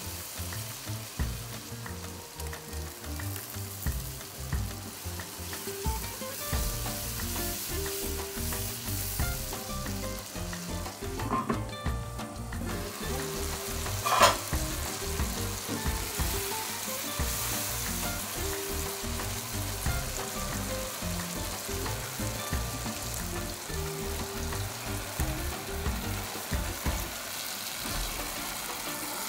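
Vegetables and spices sizzling in hot oil in a pot while a silicone spatula stirs them. One sharp knock about halfway through is the loudest sound.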